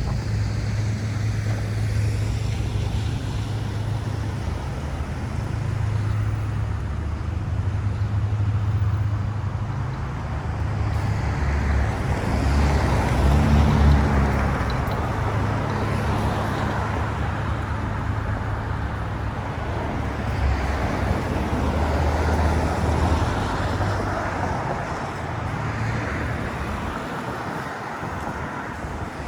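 City street traffic: motor vehicles running and passing, with a steady low engine rumble under the noise of tyres, loudest about halfway through as a vehicle passes close.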